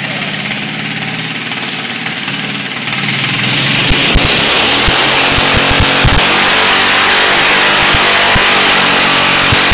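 A 14 hp lawn mower's engine running steadily. About three seconds in it gets much louder as a broad hiss of spinning tyres joins in for a burnout, with scattered low thumps.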